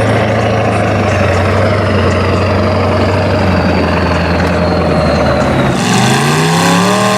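Truck engine running steadily, then revving hard about six seconds in, its pitch climbing fast.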